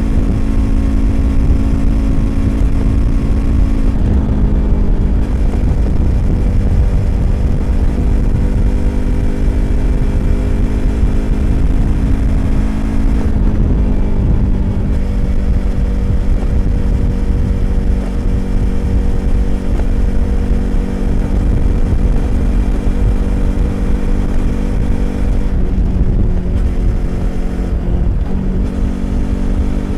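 Yamaha YZF-R25's 250 cc parallel-twin engine through an aftermarket Prunus exhaust, cruising on the highway under steady throttle, with wind rumble underneath. The engine note shifts a few times, around four seconds in, midway and near the end, as the throttle eases and picks up again.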